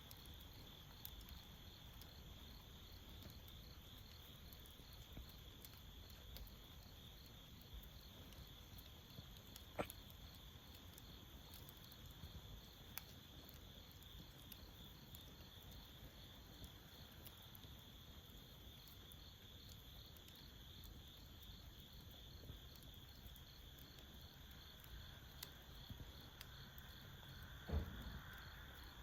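Crickets chirping steadily in a fast, even pulse, with a few faint crackles from a hardwood charcoal fire; a sharper pop comes about ten seconds in and a louder knock near the end.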